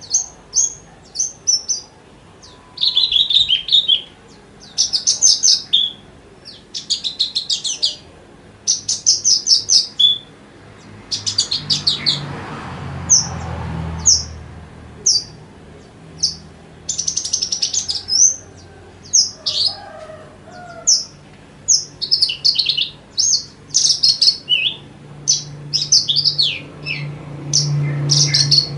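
Javan bush lark (branjangan) singing a dense song of short rising and falling chirps and rapid trills, with only short gaps between phrases. A low rumble swells briefly near the middle, under the song.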